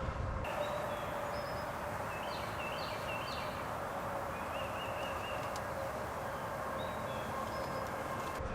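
Songbirds chirping in short, scattered notes over a steady outdoor hiss.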